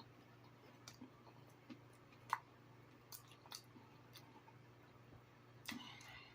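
Faint chewing of pizza, with scattered soft mouth clicks, one sharper click about two seconds in, and a brief noisier bit near the end.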